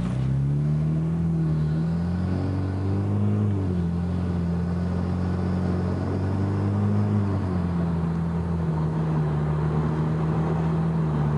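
Hyundai Genesis Coupe 2.0T's turbocharged four-cylinder through a Magnaflow 16478 cat-back exhaust, heard inside the closed cabin, pulling away under light to moderate acceleration with a deep, mellow note. The engine note climbs, drops at an upshift a few seconds in, climbs again, drops at a second upshift past halfway, then holds steady at cruise.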